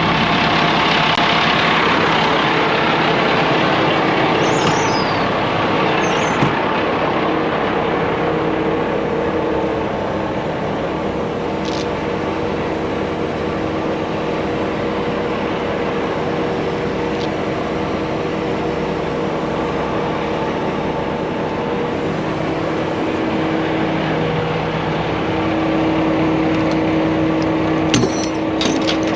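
Heavy truck engine running steadily, with a few clanks near the end.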